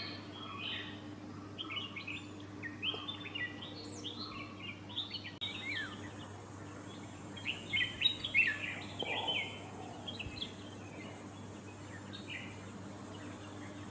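Birds chirping: a busy stream of short, quick chirps and notes, loudest a little past the middle, over a faint steady low hum.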